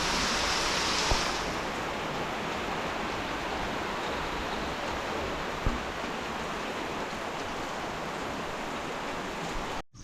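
Rain falling steadily, a continuous even hiss that eases a little about a second in and cuts off abruptly near the end.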